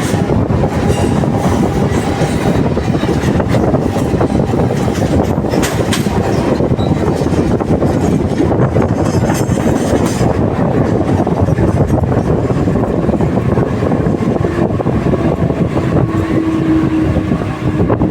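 Train running along the track: a loud, steady rumble with a fine rapid rattle of wheels and carriage. A steady tone comes in about three quarters of the way through and holds to the end.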